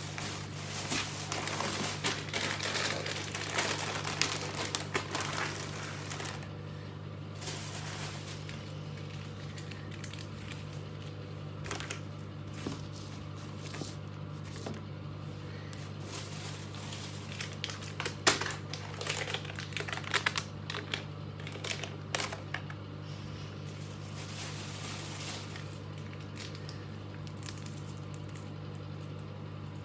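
Plastic snack and candy wrappers crinkling and rustling as packets are handled and set down, densest in the first few seconds and in scattered bursts after, over a steady low hum.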